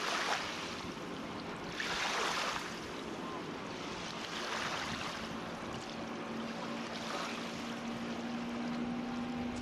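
Water rushing and splashing along a moving boat's hull, swelling in surges every two to three seconds, with a faint steady hum coming in about halfway through.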